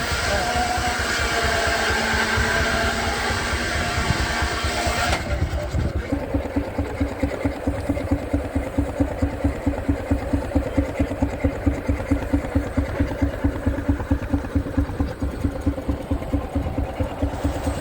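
A steady high whine of several tones over a running rumble cuts off abruptly about five seconds in. From then on, a Baker steam engine's exhaust chuffs out of the stack in an even beat of about three a second, the engine working under load.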